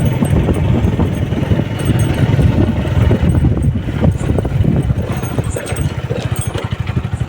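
Motorcycle engine running, a fast low pulsing from its firing.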